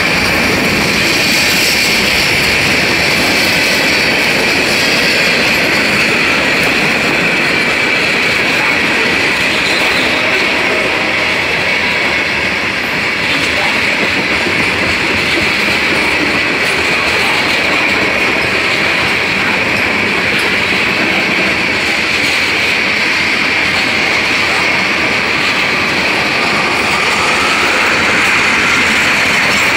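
Freight train's cars rolling past close by: a steady rumble and clatter of steel wheels on the rails, with a steady high tone running over it.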